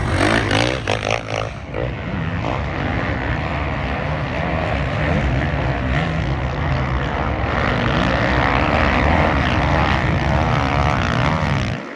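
Off-road racing engines revving, their pitch rising and falling during the first two seconds, then running together in a steady drone that cuts off suddenly just before the end.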